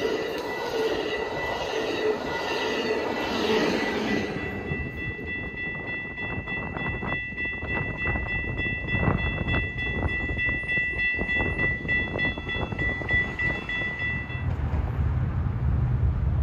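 Amtrak Surfliner passenger train rolling past on the rails and fading away over the first four seconds, while a thin steady high-pitched tone lingers. After the tone stops near the end, wind rumbles on the microphone.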